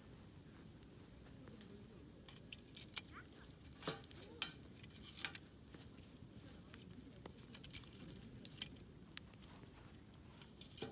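Wood campfire crackling: irregular sharp pops and snaps, the loudest about four to five seconds in, over a faint low hiss.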